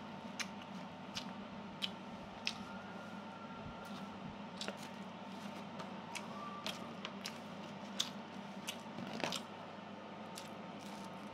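A person chewing food close to the microphone, with irregular clicks and smacks of the mouth over a steady low hum.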